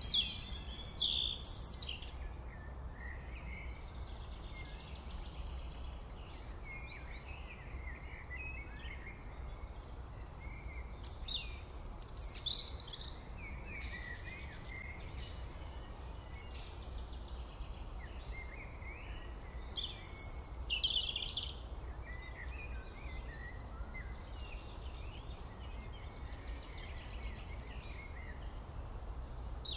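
Small birds chirping and twittering in scattered short calls and trills, busiest at the start, about twelve seconds in and about twenty seconds in, over a steady low hum.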